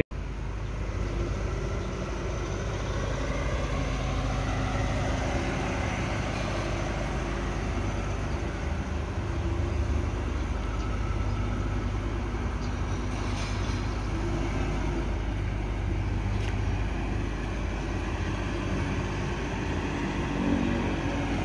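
Steady motor-vehicle engine noise, even in level throughout, with faint low hum lines and no distinct events.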